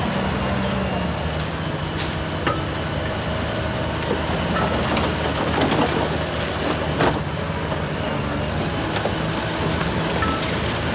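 Bulldozer's diesel engine running steadily, with a few sharp metallic clanks, the loudest about two seconds in and another about seven seconds in.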